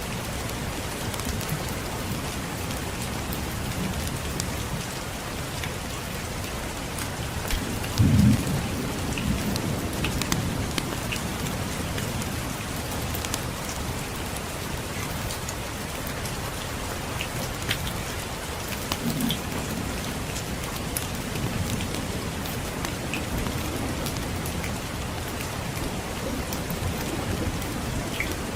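Steady rain falling, with distant thunder rumbling low twice: a louder roll about a third of the way in that fades over a few seconds, and a softer one about two-thirds of the way in.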